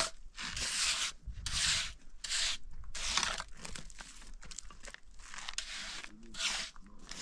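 Repeated rubbing or scraping strokes, a little over one a second, each lasting about half a second.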